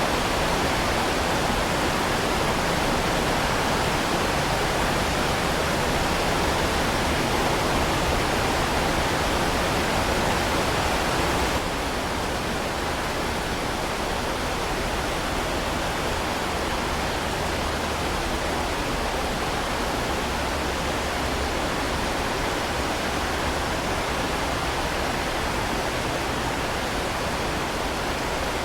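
Heavy rain falling as a steady, dense hiss, with no separate drops or thunder standing out. It steps down a little in level and loses some of its highest hiss about twelve seconds in, then carries on unchanged.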